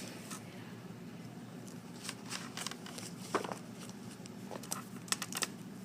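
Sheets of paper being handled and shuffled: a scatter of short, crisp rustles and taps over a steady low hum.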